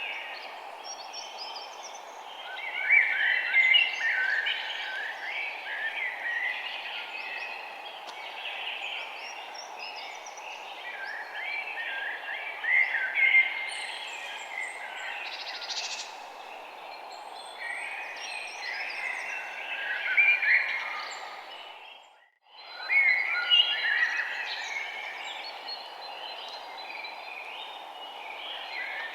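Many songbirds chirping and twittering at once, in busy overlapping bursts, over a steady low rushing background noise. About two-thirds of the way through, everything fades out to near silence and straight back in.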